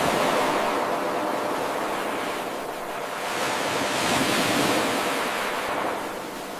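Ocean surf: a steady wash of waves that swells twice, about four seconds apart, with quieter troughs between.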